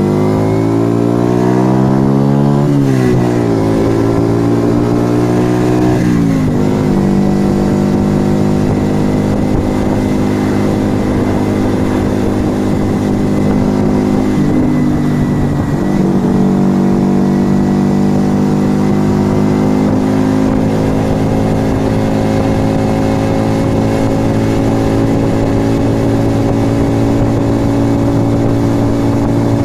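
A 1997 Yamaha XV125 Virago's small V-twin engine running through an aftermarket Turbo Kit exhaust. It revs up and drops pitch at two upshifts in the first seven seconds, then holds a steady cruise with a slow rise and another drop near the end.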